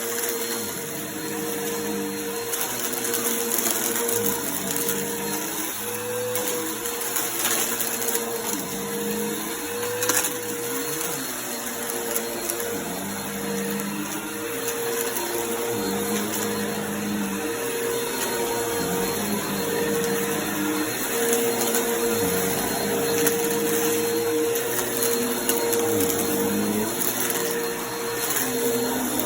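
Vacuum cleaner running steadily on a rug and sucking up confetti, with a crunching crackle from the pieces. The motor's hum wavers briefly in pitch a few times as the load changes.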